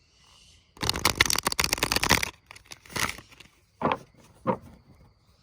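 Tarot cards being shuffled and handled: a dense rattle of card clicks for about a second and a half, a shorter rustle a moment later, then two soft taps.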